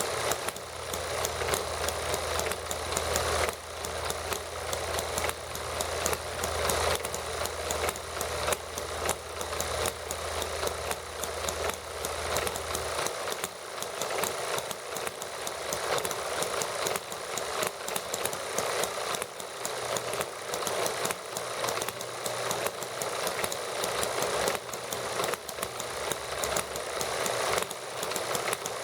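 Small model gasoline engines running steadily, a fast, continuous stream of firing clicks and rattle. A low hum underneath drops out about halfway through.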